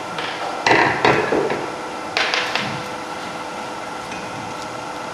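A few knocks and clatters of woodturning tools being moved and set down, about a second in and again a little after two seconds, over a steady machine hum.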